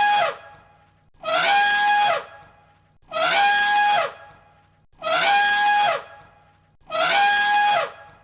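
An animal call repeated five times about every two seconds, each call identical: a loud, brassy, held note, about a second long, that drops in pitch at its end.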